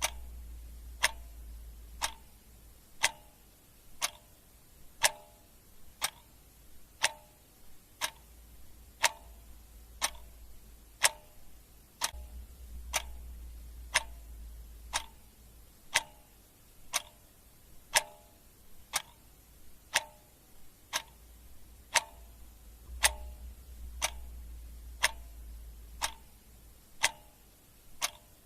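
Clock ticking steadily, one sharp tick every second. A faint low rumble swells and fades beneath the ticks a few times.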